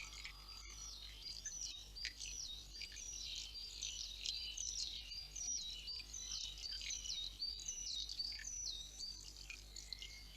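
Several songbirds singing at once: a dense, overlapping chorus of short repeated high phrases, over a faint steady low hum.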